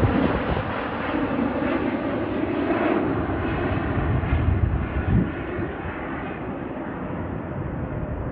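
Engine noise of an arriving Delta Air Lines Airbus A330-941 (A330neo) with Rolls-Royce Trent 7000 turbofans, a steady jet rush that slowly fades and dulls as the aircraft moves away. There are low rumbles at the start and about five seconds in.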